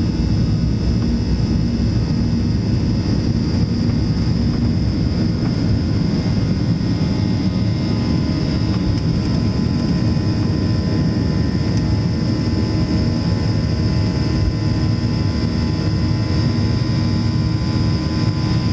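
Cabin noise aboard a Boeing 737-700: its CFM56 jet engines running steadily, a deep rumble with a thin high whine above it, unchanging throughout.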